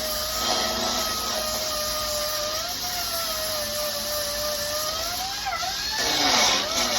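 Angle grinder grinding down welds on car body steel: a steady whine over a rasping hiss. The pitch dips as it is pressed into the work about five and a half seconds in, and the grinding gets louder near the end.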